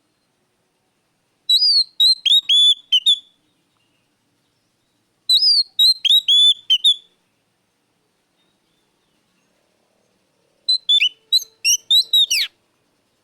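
Oriental magpie-robin (kacer) singing three short phrases of loud, clear whistled notes with quick downward slurs, each phrase under two seconds, with silent pauses between them.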